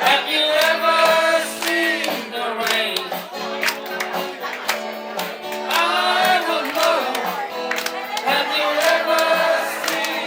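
Live band playing a rock song: singing over guitar accompaniment with a steady drum beat.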